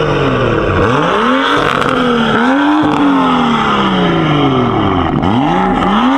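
Car engine revved hard several times, its pitch climbing quickly and falling back between blips.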